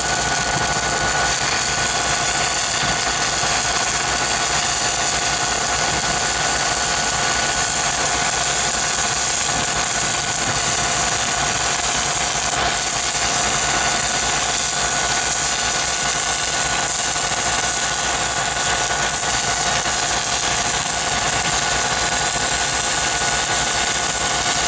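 Engine-driven welding machine running steadily, a constant engine drone with a steady hiss over it.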